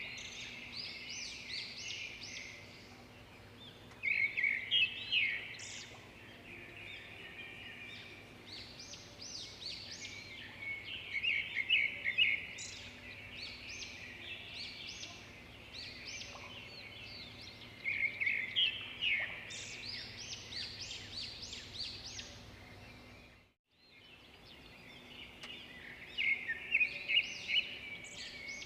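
Small songbirds chirping in repeated flurries of quick, high calls over a faint steady background hiss. The sound cuts out completely for about half a second some 23 seconds in, then the chirping resumes.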